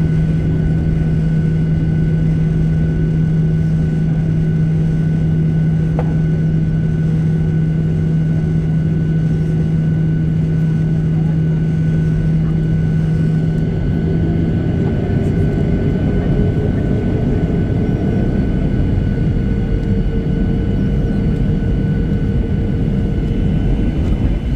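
Boeing 737-800's jet engines running with a steady rumble and whine. About fifteen seconds in, a low hum drops away and a tone starts to rise in pitch as the engines spool up.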